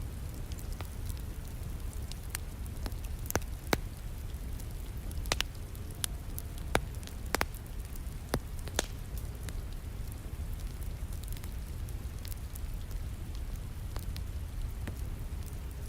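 Wood fire crackling and popping in a fireplace, with sharp pops scattered through it, most of them in the middle, over a steady hiss of falling rain.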